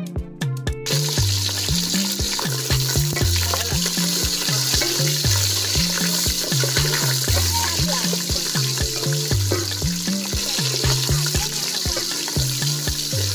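Beef and mackerel frying in hot oil in a pot, a steady sizzle that starts about a second in, as a wooden spatula stirs them. Background music with a steady bassline runs underneath.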